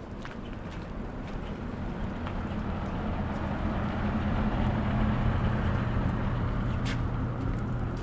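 A motor vehicle's engine running with a steady low hum, growing louder toward the middle and easing off near the end, as if the vehicle passes slowly.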